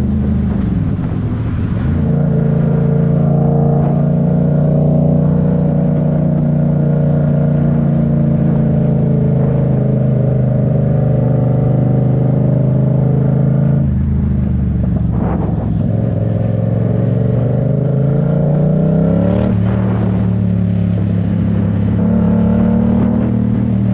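Yamaha MT-07's parallel-twin engine running under way. It holds steady revs, then the revs drop about 14 seconds in and climb steadily as it pulls. Near 20 seconds the pitch steps down, like a gear change, and then holds.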